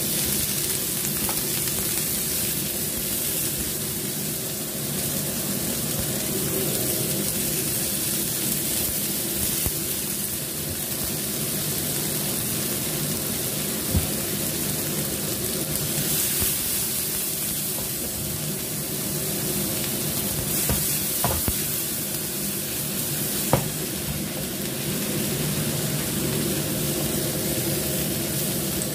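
Garlic, shallots, ginger, cherry tomatoes and red chilies sizzling steadily as they fry in oil in a frying pan, with a few sharp taps, likely utensil against pan, about halfway through and again a little later.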